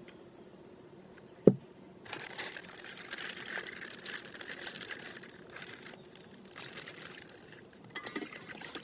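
Plastic wrapping crinkling and rustling as it is handled and torn open. A single sharp knock about one and a half seconds in comes before the rustling.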